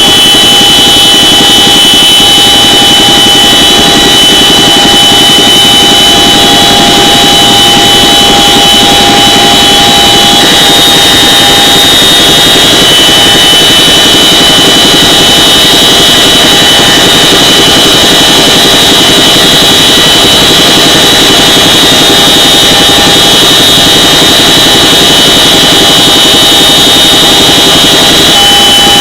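CH-47 Chinook helicopter's twin turboshaft engines and rotors running, a loud steady high turbine whine over dense rotor and engine noise. The whine shifts slightly about ten seconds in and again near the end.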